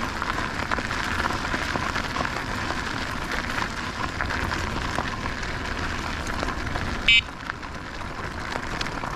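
Steady wind and rolling noise from riding an e-bike, buffeting the action camera's microphone. About seven seconds in comes one short, high-pitched beep.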